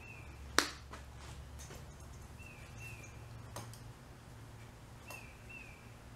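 Quiet pause with a faint two-note chirp repeating about every two and a half seconds over a low hum. A sharp click comes about half a second in, with a few fainter ticks after it.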